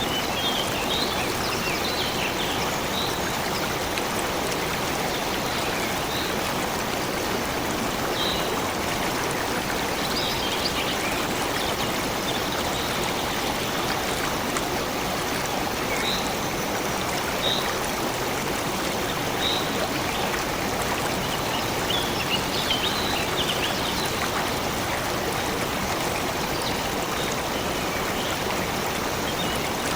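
Stream water flowing steadily, a constant rushing and trickling, with short bird chirps here and there.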